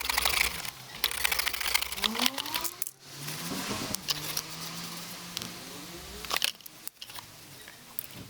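Metal tools and engine parts clinking and clicking during engine work, in short segments with abrupt cuts between them.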